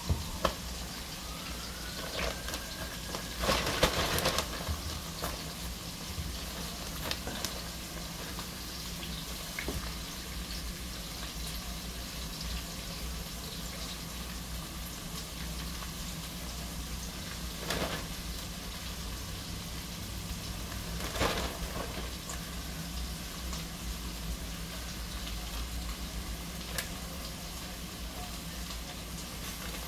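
Food frying in oil in a skillet: a steady low sizzle, with a few brief louder bursts, the loudest about four seconds in.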